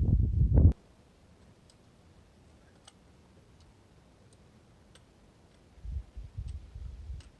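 Wind buffeting the microphone, which cuts off abruptly under a second in. A quiet stretch with faint, irregularly spaced high ticks follows, and the wind rumble returns in gusts near the end.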